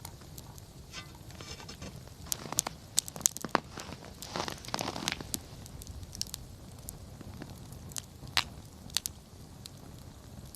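Wood campfire crackling, with irregular sharp pops and a denser run of crackling about four to five seconds in.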